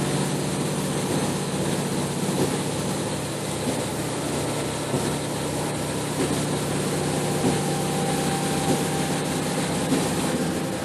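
A vehicle's engine idling steadily: a low, even hum with a faint rattle.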